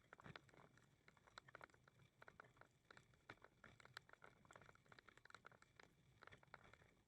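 Faint footsteps on a path: quick, irregular crunches and clicks.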